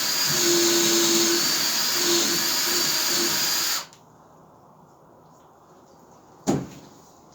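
Power drill boring holes into the end of a seasoned log, the motor running at a steady pitch that wavers slightly under load, then stopping abruptly about four seconds in. A single sharp knock follows a couple of seconds later.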